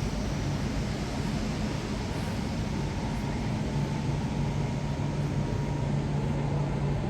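Railway station ambience: a steady low hum, as from a train standing at the platform, with a faint higher tone coming in about halfway.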